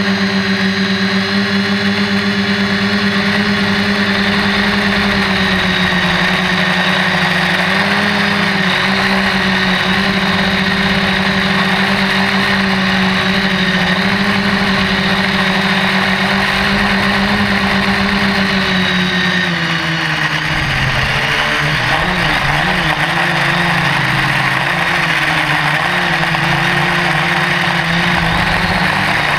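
Quadcopter's electric motors and propellers running with a loud, steady hum, its pitch held level, then dropping and wavering about two-thirds of the way through as the throttle changes.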